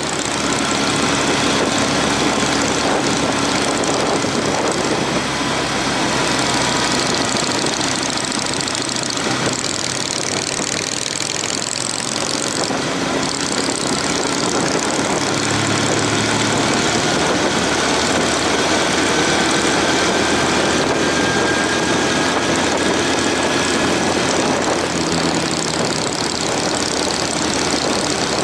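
Honda CB750 motorcycle engine running under way, with strong wind rush over the microphone; the engine pitch drifts slowly up and down with the revs.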